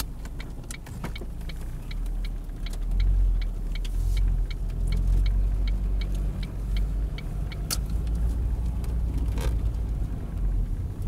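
Low engine and road rumble heard inside a car, growing louder about two seconds in as the car pulls away. Over it, the turn signal ticks steadily at about three clicks a second for a right turn.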